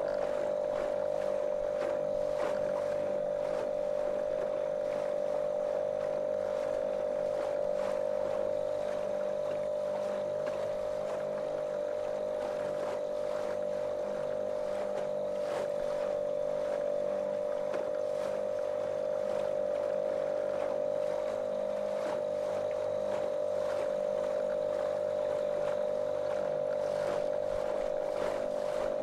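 Small motorboat's motor running at a steady, monotonous drone at cruising speed, with irregular water splashes along the hull.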